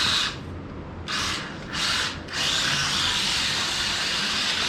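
Small electric motor of a 1:43 scale Jaibaile 4WD RC drift car whining in short bursts of throttle, then held steadily from about halfway, as the car slides its tyres around a hardwood floor.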